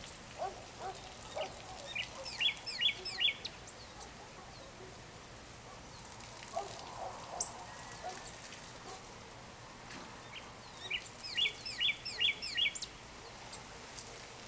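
Birds calling at dusk. A quick phrase of about five chirps comes twice, about nine seconds apart, with soft low clucking calls in between.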